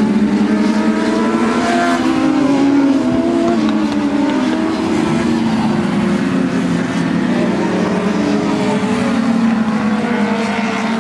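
Several dwarf race cars' motorcycle engines running hard around the track together. Their pitches rise and fall, overlapping, as the cars accelerate and lift.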